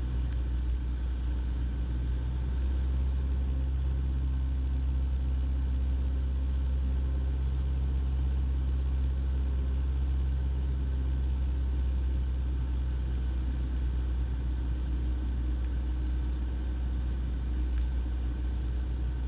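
Cessna 172's engine and propeller droning steadily in the cockpit, on final approach to land.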